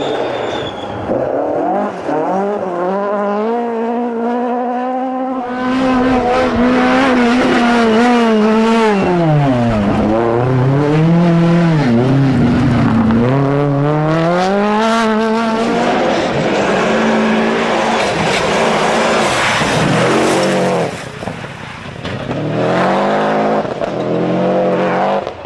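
Rally car engine at hard throttle, revs climbing in steps through the gears and falling sharply and recovering twice in the middle as it brakes and accelerates again; much louder from about five seconds in.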